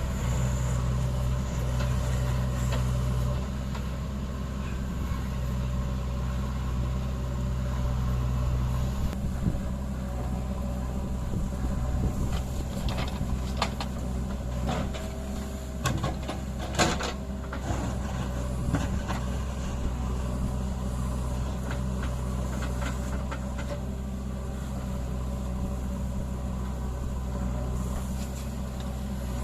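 A JCB 3DX backhoe loader's diesel engine runs steadily throughout. About halfway through, a series of short clanks and knocks sounds over it.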